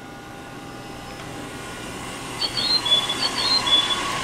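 E655 series electric train starting to pull away from a station platform, its running sound slowly growing. Two short high chirps, each dropping in pitch and then holding, come in the second half.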